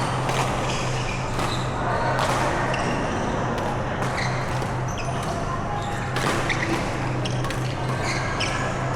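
Badminton rally in an echoing indoor hall: repeated sharp racket hits on the shuttlecock and short high squeaks of shoes on the court floor, over a steady low hum.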